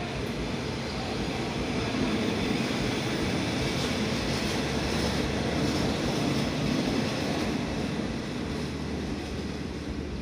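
State Railway of Thailand passenger carriages rolling past along the platform, their steel wheels running on the rails. The sound is loudest in the middle and eases off near the end as the last carriage goes by.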